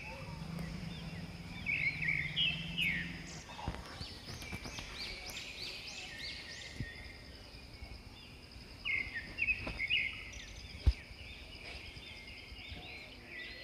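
Birds calling: clusters of quick, arched chirps, densest about two seconds in and again about nine seconds in, over steady outdoor background noise. A low hum fades out after about three seconds, and a single sharp click comes about eleven seconds in.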